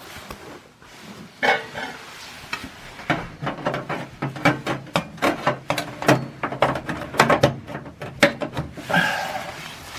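Irregular clicking and rubbing, like things being handled close to the microphone, over a low steady hum that starts about three seconds in.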